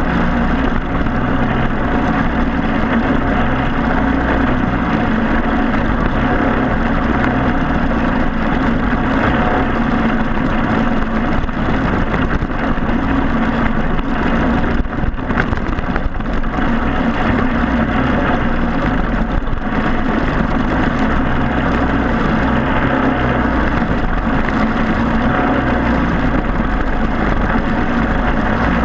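Racing kart's four-stroke Briggs & Stratton Animal engine running continuously, its pitch rising and falling a little as the kart speeds up and slows.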